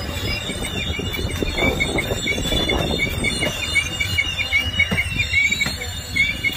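Norfolk Southern freight train cars rolling by, wheels squealing against the rail in a high chirp repeated several times a second, over a low rumble with occasional knocks from the wheels.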